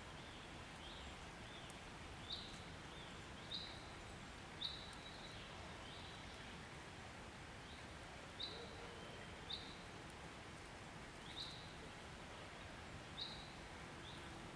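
A bird calling with short, high chirps, repeated about once a second with a pause in the middle, over a faint steady outdoor background hiss.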